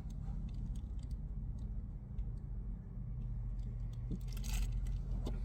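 Low, steady rumble of trucks idling in a truck-stop lot, heard from inside a parked car, with faint clicks and a brief rustle about four and a half seconds in.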